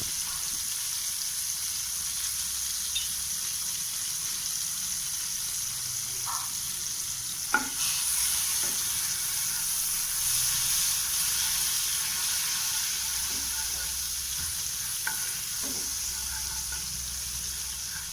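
Butter melting and sizzling in a hot pan: a steady high hiss, with one sharp knock about seven and a half seconds in.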